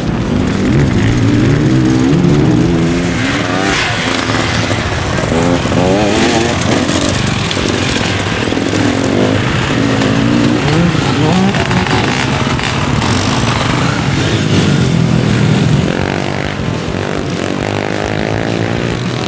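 Several motorcycle engines revving up and down, overlapping, as bikes race past and shift gears.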